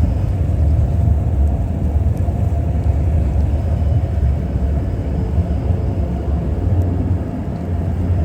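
Steady low rumble of a CTrain light-rail train running, with no distinct knocks or tones.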